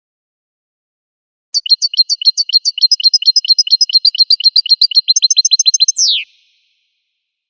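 A finch singing one phrase: a fast run of high repeated notes, about nine a second, for some four and a half seconds. It ends in one falling slurred note.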